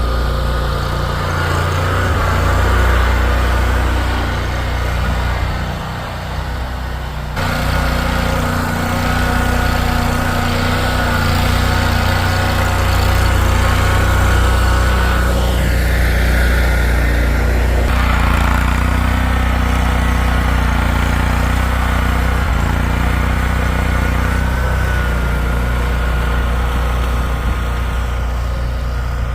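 A motor vehicle engine running steadily: a loud, low drone with a faint steady whine above it. The sound changes abruptly about seven seconds in.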